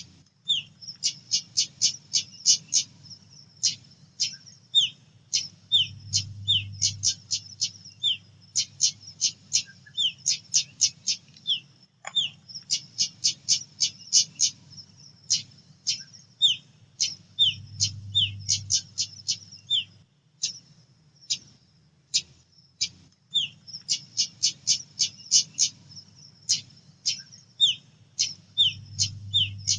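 Female pied bushchat (decu) calling: fast runs of sharp, high chip notes mixed with short falling slurs, with brief pauses between runs, over a faint low hum.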